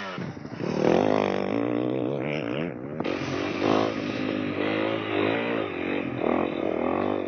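Honda CRF250L's single-cylinder four-stroke engine under way on a dirt trail, the revs rising and falling repeatedly as the rider works the throttle.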